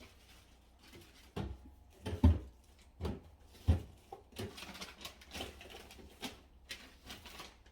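Food packages and containers being set onto refrigerator shelves: several dull knocks, the loudest about two and a half and four seconds in, then lighter clicks and plastic rustling.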